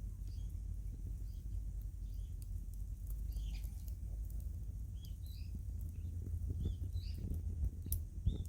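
Small birds chirping in short repeated calls over a steady low rumble, with faint scattered ticks.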